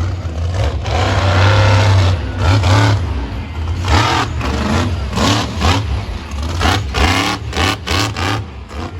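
Monster truck engine revving hard, its pitch rising and falling again and again, with several sharp cracks near the end.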